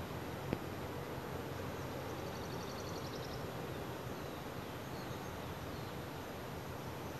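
Distant metre-gauge train rolling past, a steady low rumble. High chirping trills come and go at intervals, and there is one sharp click about half a second in.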